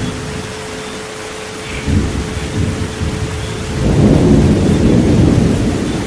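Steady rain with a long rumble of thunder that builds about two seconds in and is loudest past the middle, over a steady pure 432 Hz tone.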